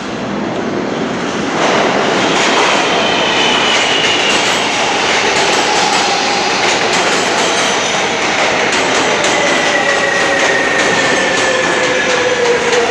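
New York City Subway L train running into the station and slowing, loud and close. Its whine falls slowly in pitch as it brakes, over a steady rumble with quick clicks from the wheels.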